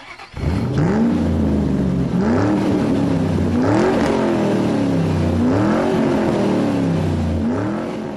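Car engine revving repeatedly, its pitch rising and falling about five times over a steady low drone, fading near the end.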